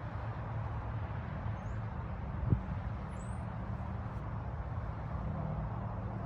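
Outdoor ambience: a steady low rumble, like a running engine or distant traffic, with a single thump about two and a half seconds in and two faint, brief high chirps from a small bird.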